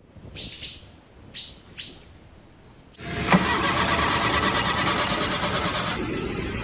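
Four short bird chirps, then about three seconds in the petrol engine of a first-generation VW Caddy pickup starts and keeps running, loud and steady.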